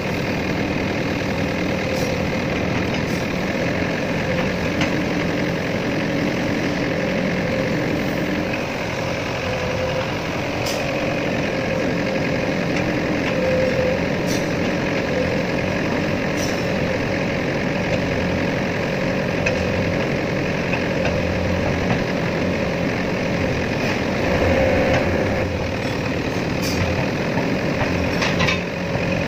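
Excavator's diesel engine running steadily under a faint steady whine, with occasional brief sharp clicks.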